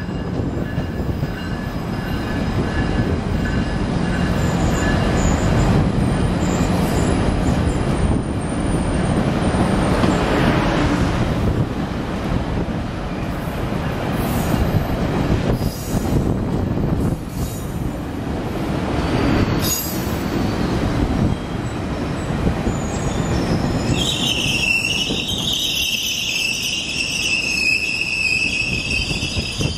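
GO Transit bilevel passenger coaches rolling at low speed, with a steady rumble of wheels on rail and a few clicks. About three quarters of the way through, a loud, wavering, high-pitched steel-on-steel wheel squeal sets in and carries on.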